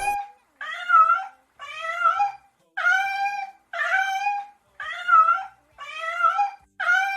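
A domestic cat meowing over and over, about seven short pitched meows roughly once a second.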